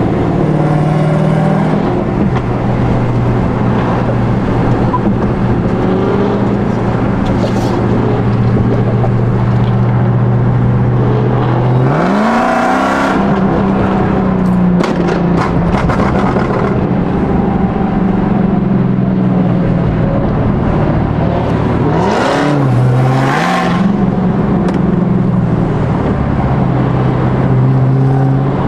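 Car engines running loud and steady at a car meet, with the pitch rising as an engine is revved about twelve seconds in and again about twenty-two seconds in.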